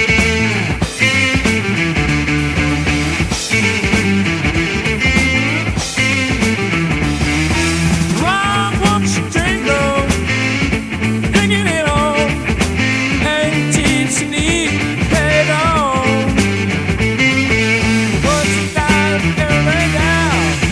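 Psychedelic rock band playing an instrumental passage: electric guitar, bass and drum kit, with a lead guitar bending notes over a steady bass line.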